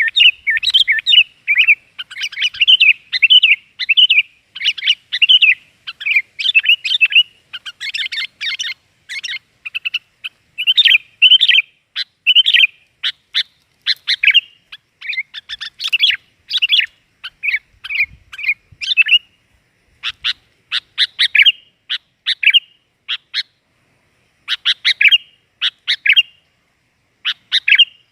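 Sooty-headed bulbul calling in a noisy burst of quick chirping phrases, thinning about halfway through into shorter separate notes with gaps between them. It is a lure call, used to draw wild bulbuls in.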